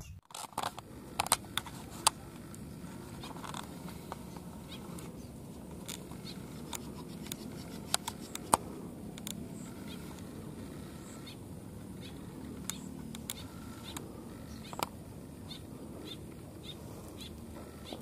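Outdoor pond ambience: a steady low background with scattered short, sharp bird chirps and clicks. The louder ones come about a second in, at two seconds, around eight seconds and near fifteen seconds.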